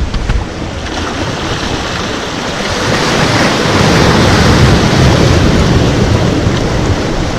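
Ocean surf: a wave builds, breaks with a rushing wash about halfway through, then eases off. Wind buffets the microphone.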